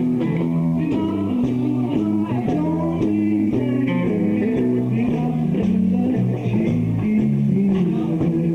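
Live band music: guitar playing over bass and drums.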